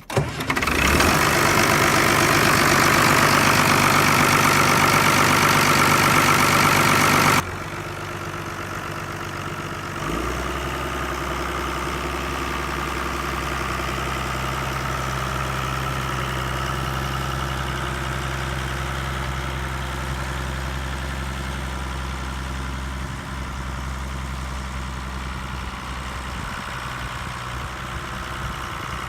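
1985 Case IH 2096 tractor's six-cylinder diesel engine running. It is loud and harsh for the first seven seconds or so, then drops suddenly in level. A few seconds later it settles into a steady, deeper idle.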